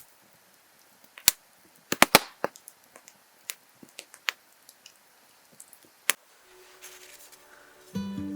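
Wood fire crackling: sharp, irregular pops and snaps, about a dozen spread over several seconds. Music comes in near the end.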